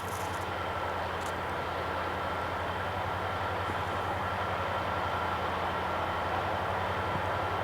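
Diesel locomotives of a freight train, led by an SD70I, running with a steady low drone as the train approaches.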